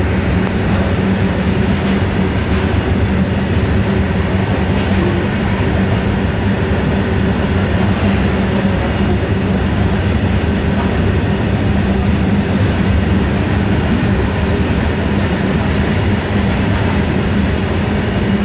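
Goods train's open freight wagons rolling past at speed: a loud, steady rumble and rattle of steel wheels on the rails, with a steady low hum underneath.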